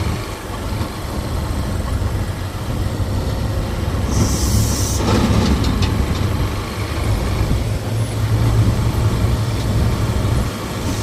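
A motor vehicle engine running with a steady low rumble, and a short high-pitched hiss lasting about a second, about four seconds in.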